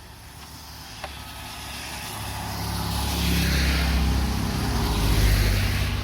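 A motor vehicle passing close by on the road. Its engine hum and tyre hiss build over a few seconds, are loudest near the end, then begin to fade.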